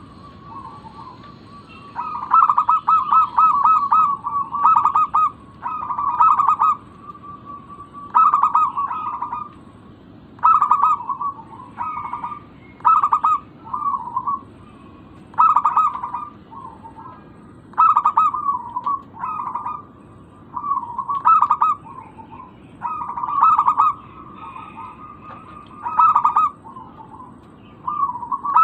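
Zebra dove song: rapid rippling, staccato cooing phrases, each about a second long, repeated every two to three seconds.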